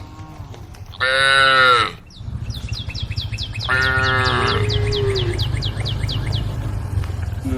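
Cattle calling to the herd: a loud moo about a second in, then a second, longer moo that drops in pitch as it ends. Through the middle runs a fast series of short high chirps, about four a second, over a low rumble.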